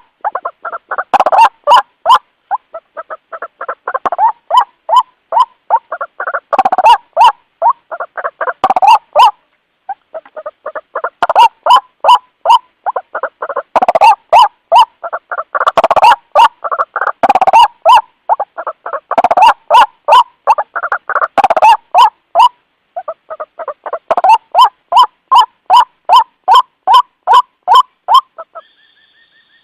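White-breasted waterhen calling: a long, loud run of rapid harsh notes, about three to four a second, rising and falling in surges, with two short breaks. This is the repeated call used as a lure to draw other waterhens. The calling stops near the end, leaving a faint steady tone.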